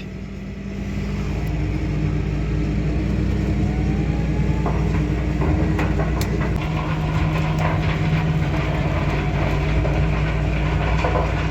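Tractor engine pulling a land roller, building up over the first second or so and then running steadily under load, with scattered clicks and rattles.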